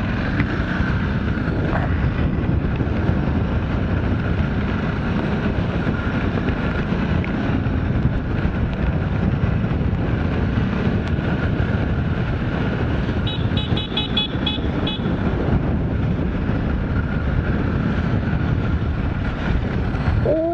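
Motorcycle riding through city traffic, heard from a helmet camera: a steady mix of engine, wind and road noise. About two-thirds of the way through comes a quick string of short high beeps.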